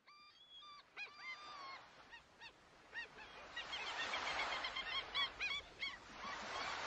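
Birds calling again and again: short, arched, honking calls, several at once. A steady rushing noise grows louder about halfway through.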